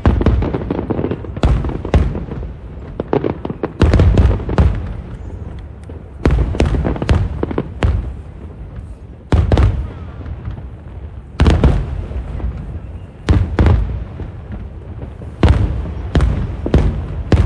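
Fireworks display: aerial shells bursting in a steady string of sharp booms, one every second or two, each followed by a low rumbling echo, with smaller crackles in between.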